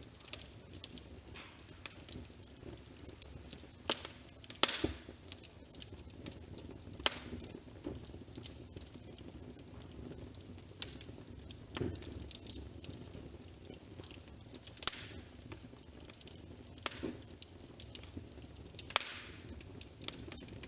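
Wood fire crackling, with irregular sharp pops, a few of them louder, over a low steady rumble.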